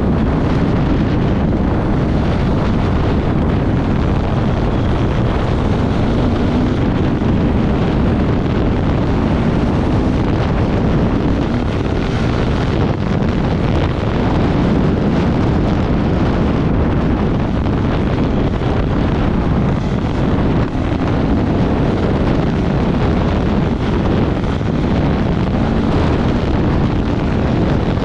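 Off-road motorcycle running at speed, its engine buried in heavy wind buffeting on the microphone.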